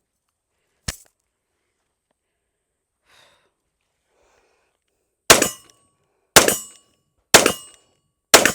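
A Smith & Wesson M&P 2.0 pistol in .40 S&W fired four times at an even pace of about one shot a second, each report loud and sharp. A small click comes about a second in, before the shots.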